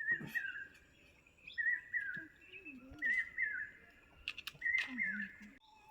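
A songbird singing a short warbling phrase four times, about every one and a half seconds.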